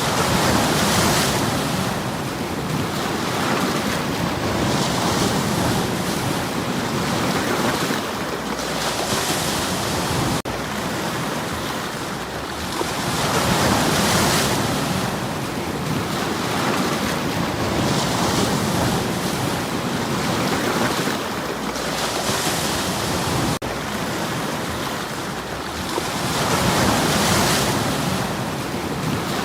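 Sea waves washing onto a stony shore, the surf surging and hissing about every four to five seconds, then drawing back.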